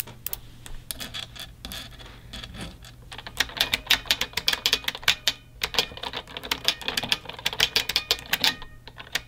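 Typing on a mechanical keyboard: a few scattered key clacks, then a quick, dense run of keystrokes from about three seconds in.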